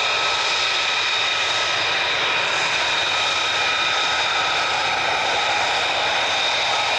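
Military jet engine running steadily: a broad rush with a high whine of several steady tones that holds the same pitch throughout.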